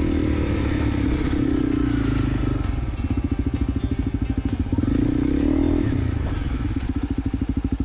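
Honda CRF250L's single-cylinder engine running on a dirt trail. The revs drop to a slow chug about three seconds in, pick up briefly, then chug again near the end, with light clatter over the top.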